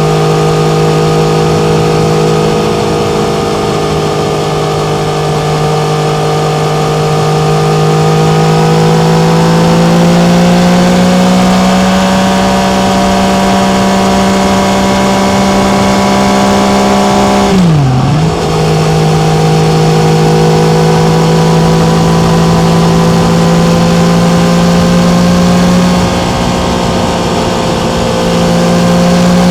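Yamaha MT-09's 847 cc inline-three engine running under way at a steady pitch. The engine note rises slowly about ten seconds in, then dips sharply and picks straight back up about eighteen seconds in.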